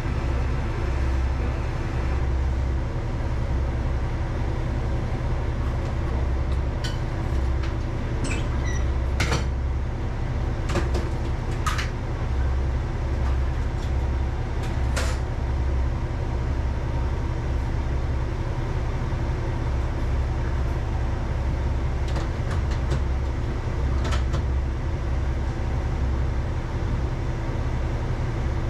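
Diesel railcar running along the line, heard from inside at the front: a steady low engine drone with a constant hum. Scattered sharp clicks and knocks come through it about eight times.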